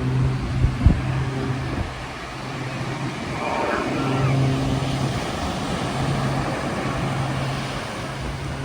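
Low, steady engine drone that fades in and out, with a sharp knock about a second in.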